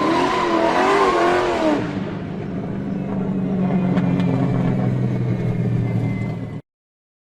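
A car engine revving with a wavering pitch, then running at a steady low drone, cutting off abruptly near the end.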